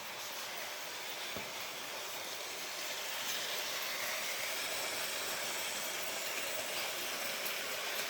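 Märklin HO scale model train running on its track, a steady whirring hiss that gets slightly louder about three seconds in.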